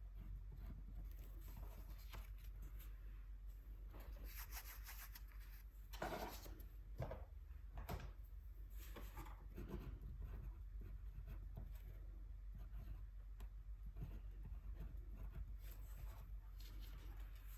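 Paintbrush brushing gouache onto paper in soft, irregular scratchy strokes, with a couple of sharper taps midway.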